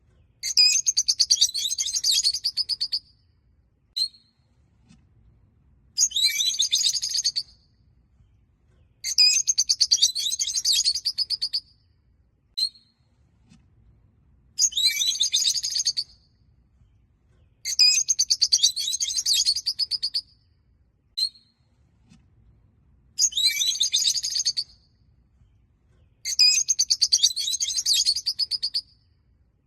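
Peach-faced lovebirds chattering in rapid, high-pitched bursts of a couple of seconds each, about seven in all, separated by short pauses, with a single sharp chirp in some of the gaps.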